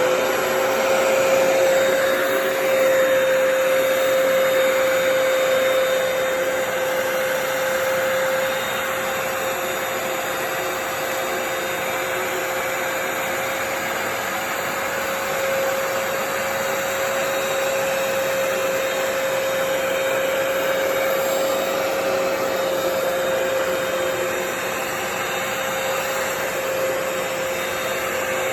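Hoover PowerDash Pet carpet cleaner running steadily, its motor giving a constant whine over a rush of suction. It is a little quieter from about eight seconds in.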